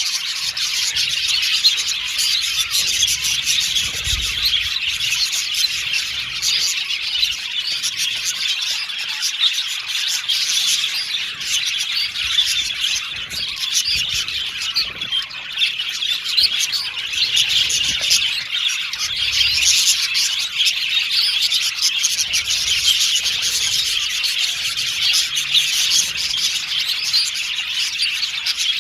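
A flock of budgerigars chirping and chattering together: a dense, continuous mass of overlapping tweets, warbles and trills.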